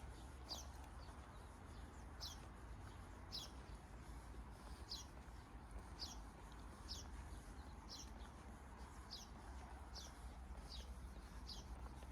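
A small bird repeating one short, high, falling chirp about once a second, faint over a low steady background rumble.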